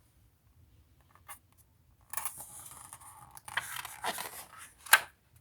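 Paper rustling as a picture-book page is handled and turned, with a sharp crack of the paper near the end.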